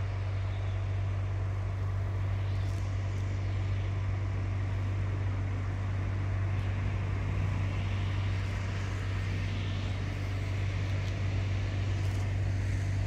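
Steady low rumble of a passenger train approaching along the line, with a hiss of wheels on rails growing louder in the second half as it draws nearer.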